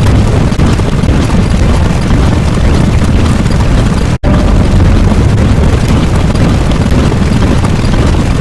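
Loud, continuous explosion-like rumble, heaviest in the low end, cut by a brief silent gap about four seconds in where the looped sound effect restarts.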